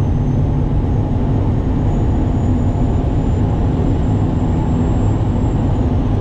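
Duramax turbodiesel engine running steadily, with a thin high turbo whistle that rises slowly, holds, and falls away near the end.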